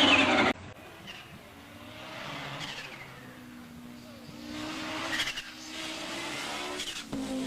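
Audi Sport Quattro S1 E2 hillclimb car's turbocharged five-cylinder engine at full throttle, cut off abruptly about half a second in; after that the engine is heard more distantly, its pitch rising and falling through the gears, then holding steadier in the second half.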